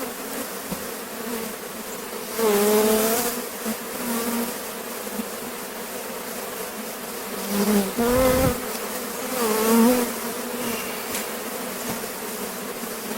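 Honeybees buzzing around an open hive: a steady drone from the colony, with individual bees buzzing louder and wavering in pitch as they pass close, about two and a half seconds in and again around eight and ten seconds. A low thump comes about eight seconds in.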